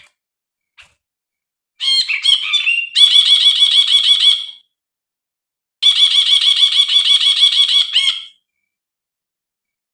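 Brinji (a bulbul) song: two phrases of quick, chattering repeated notes, the first starting about two seconds in after a few varied notes and the second about six seconds in, with silent gaps between and after them.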